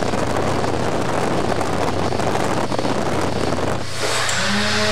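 Wind buffeting on a motorcycle-mounted camcorder's bare microphone, with no foam filter over it, over a steady low engine drone. About four seconds in, the rush of wind drops away abruptly, leaving a steadier hum.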